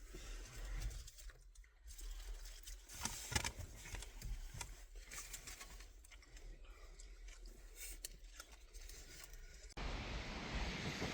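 Faint scattered clicks and taps in a quiet room, then an abrupt switch near the end to a steady windy hiss with low rumble.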